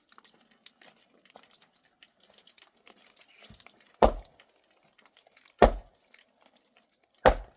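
Three heavy thuds, evenly spaced about a second and a half apart, over faint scattered crackling and small clicks.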